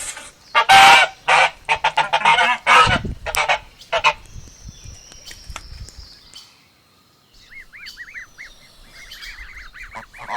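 Domestic geese honking: a rapid run of loud, harsh honks in the first four seconds, then a lull. From about seven and a half seconds, a string of soft, high, repeated peeping calls follows, joined by a few more honks near the end.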